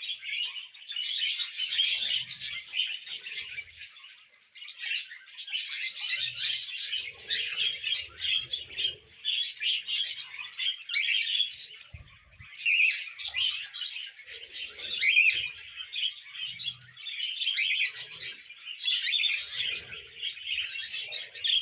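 Budgie chattering in a fast, continuous run of chirps and warbles, broken by a couple of short pauses.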